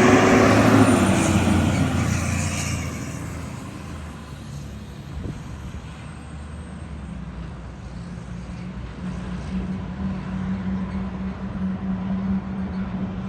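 A large vehicle passes, its engine and road noise fading away over the first few seconds. Then a steady low engine hum slowly grows louder.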